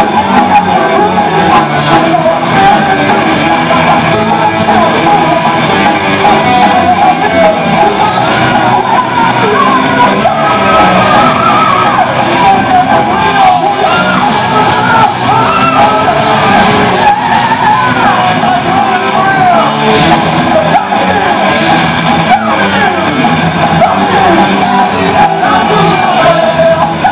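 Heavy/speed metal band playing live and loud: distorted electric guitars, bass guitar and drums, with a singer's voice, ringing in a large hall.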